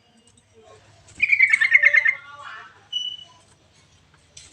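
Trucuk (yellow-vented bulbul) song from a lure recording: one fast, bubbly phrase of repeated notes about a second in, then a brief high whistle near three seconds.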